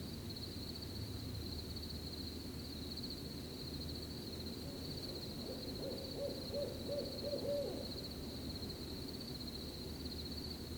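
An owl hooting, a quick run of about six short hoots a little past the middle, over a steady background of crickets chirping.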